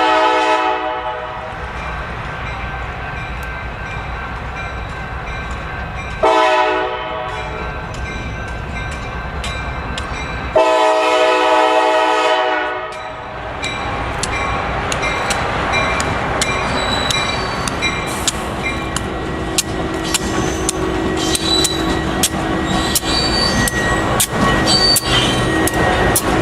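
Locomotive air horn sounding three blasts, a short one between two longer ones, with the last the longest, as the train approaches. The train then passes with a steady rumble and rapid clicking of wheels over the rails.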